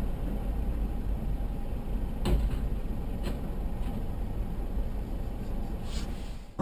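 Steady low road and engine rumble of a car in motion, heard from inside the car, with a sharp knock about two seconds in and a few fainter clicks after it.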